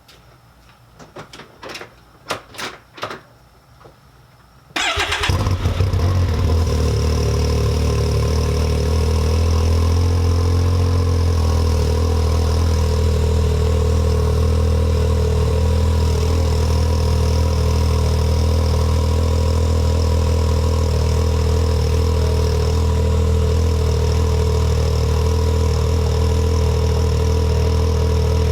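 A few clicks, then the Can-Am Maverick X3's turbocharged three-cylinder engine fires abruptly about five seconds in on a cold start and settles into a steady idle through an Evolution Powersports full exhaust with cat delete. The engine has sat unstarted for 28 days, which the owner gives as the reason it sounds a little weird.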